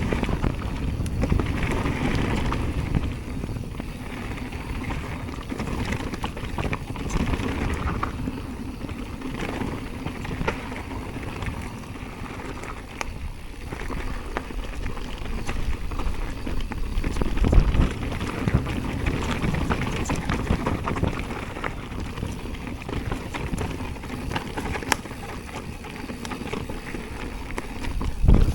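Mountain bike being ridden fast down a dirt trail: wind buffeting the microphone over the rumble and rattle of tyres and frame on rough ground, with a heavy thump about 17 seconds in and another near the end.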